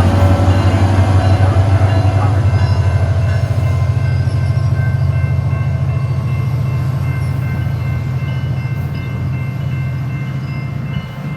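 Diesel train running past with a loud low engine rumble that slowly fades as it moves away.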